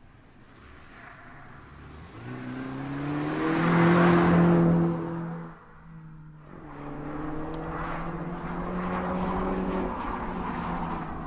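MINI Cooper five-door hatchback driving by, its engine note rising as it comes closer and loudest about four seconds in, then cut off abruptly. It is followed by the engine running steadily under load as the car drives on.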